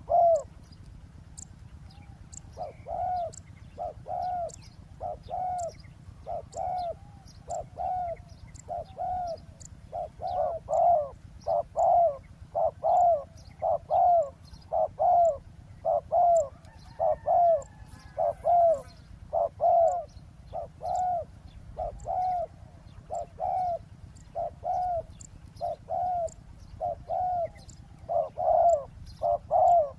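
Spotted doves cooing, repeating their short rolling coo phrases about once a second throughout, some calls much louder than others. Faint high chirps of small birds sound in the background.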